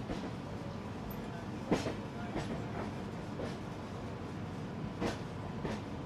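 Passenger train coach running on the track: a steady rumble with irregular sharp clacks of the wheels over rail joints, the loudest about two seconds in and again near the end.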